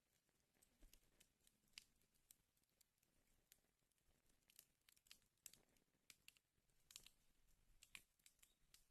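Wood fire in a fireplace crackling faintly, with irregular sharp pops and snaps several times a second over a soft hiss.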